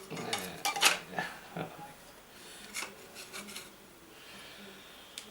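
Small metal parts of a dismantled starter motor clicking and rubbing as they are handled, with a cluster of clicks in the first second and a few lighter ones about three seconds in.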